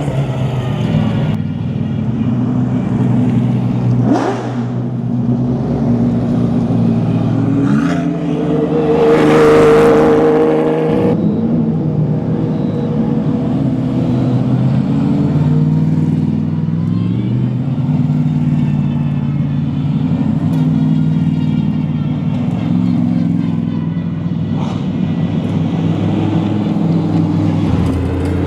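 Race car engines running at low revs as they crawl along in a slow procession, the engine notes rising and falling. About nine seconds in, a louder car revs or passes close for a couple of seconds.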